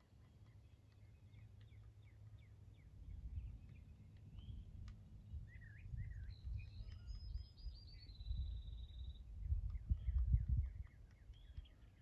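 Small birds chirping and calling, with one rapid high trill that falls slightly in pitch in the middle, over an uneven low rumble of wind on the microphone that grows louder in the second half.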